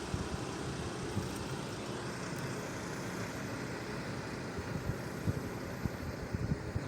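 Steady rumble of a vehicle running, with a few short low thumps in the second half.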